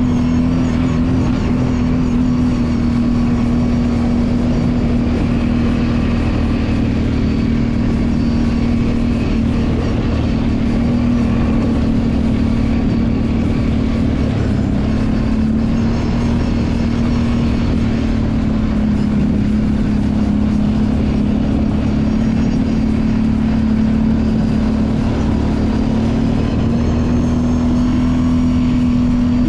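Kawasaki Brute Force 750 ATV's V-twin engine running at a fairly steady speed, its pitch drifting slightly down and back up.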